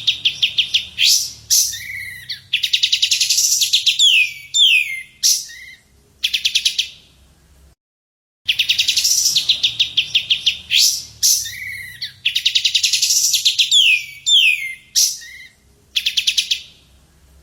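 Recorded songbird song played as a masteran training track: fast chattering trills and sharp down-slurred whistles, the same sequence of about eight seconds playing twice with a short gap between.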